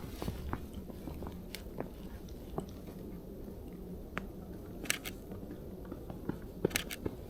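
Footsteps crunching in fresh snow, soft and irregular, over a low rumble. Two sharp double clicks stand out, one about five seconds in and one near the end.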